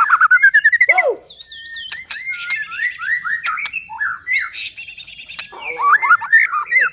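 White-rumped shama (murai batu) singing loudly in full, varied song: a fast run of rising notes in the first second, then a mix of whistled slurs and sharp clicking notes.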